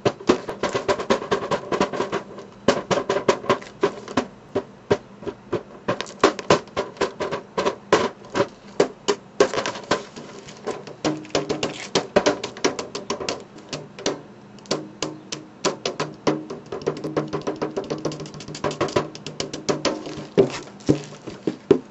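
Springform pan, still in its wrapping, tapped as a drum in quick, uneven runs of strokes, several a second, each giving a short hollow metallic ring whose pitch changes with where it is struck.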